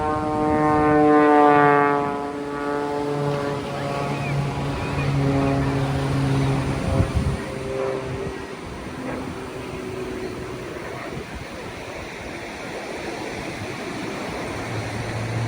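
An aircraft flying past during an airshow: its engine drone is loudest about a second and a half in, then falls slowly in pitch and fades over the next several seconds. Surf washes underneath, and there is a brief knock about seven seconds in.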